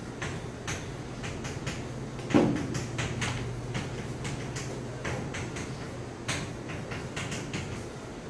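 Writing on a classroom board: irregular sharp taps and clicks, with one louder knock about two and a half seconds in, over a steady low hum.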